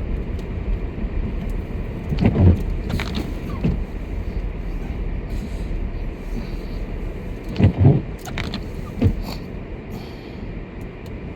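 Inside a car's cabin: a steady low rumble of the car running on the road, broken by a few short loud thumps, one about two and a half seconds in, a double one around eight seconds and another about a second later.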